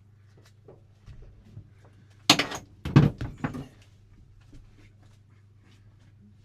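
A quick run of loud knocks and clatter starting a little over two seconds in and lasting about a second and a half, over a steady low hum, with light clicks before and after.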